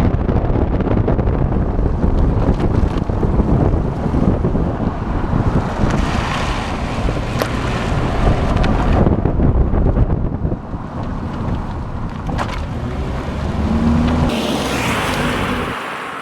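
Heavy wind buffeting on a microphone mounted low on the side of a moving four-cylinder Honda Civic, over the car's road and engine noise. The sound eases somewhat in the second half and falls away just before the end.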